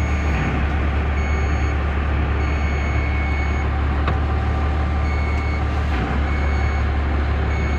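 Fire truck engine running steadily with the power take-off engaged and the clutch released, driving the rear water pump. A high beep repeats over it, on for about a second at a time with short gaps.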